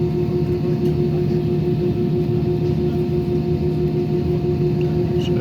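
Steady drone inside the cabin of an Airbus A320 on the ground with its CFM56 engines idling: an unchanging hum of several steady tones over a low rumble.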